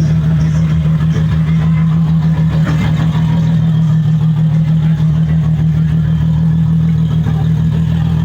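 A car engine running close by at a steady idle, a loud, even drone with no revving.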